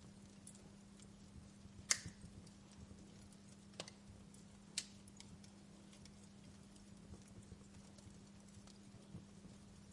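Wood fire burning in a fireplace, crackling faintly with three sharper pops at about two, four and five seconds in, the first the loudest, over a steady low hum.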